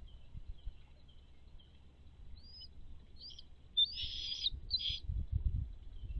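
Bird chirping: a handful of short, high calls about two to five seconds in, the longest and loudest one near the four-second mark, over fainter scattered chirps. Some low thumps follow.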